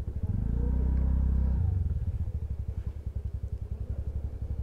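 Motorcycle engine running briefly at raised revs, then dropping about a second and a half in to an idle with a regular low throb.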